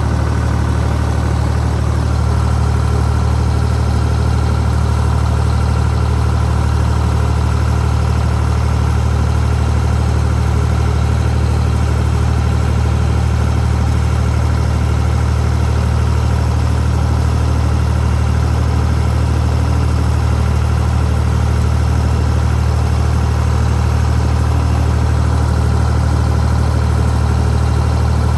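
Farm tractor's engine running steadily at a constant speed, a continuous low engine sound with no change in pitch.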